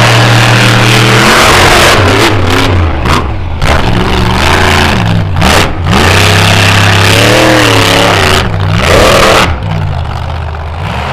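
Monster truck engine revving hard, its pitch rising and falling over and over as the throttle is worked, with a few short lifts off the throttle. It eases off near the end.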